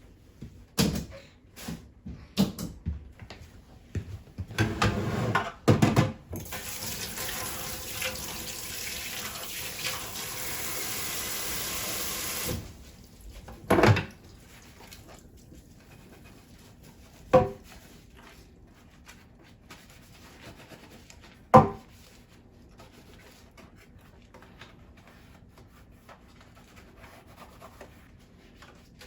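Kitchen tap running into a sink for about six seconds, then shut off abruptly. Before it come scattered clicks and clatter of things being handled, and afterwards three single sharp knocks a few seconds apart.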